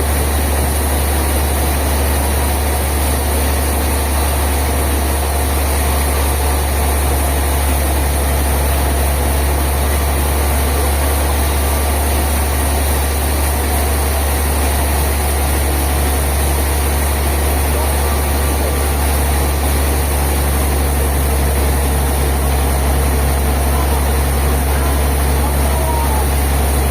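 Sawmill machinery running with a steady, unchanging low drone.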